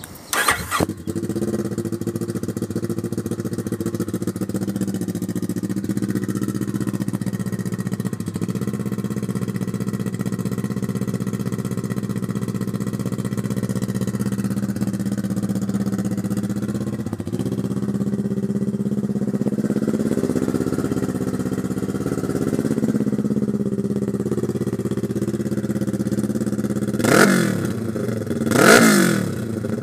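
2012 Kawasaki Ninja 650's parallel-twin engine starting about half a second in and idling through a custom, not-yet-baffled Cherry Bomb Extreme muffler exhaust, very loud. Near the end the throttle is blipped twice, two quick revs up and back down.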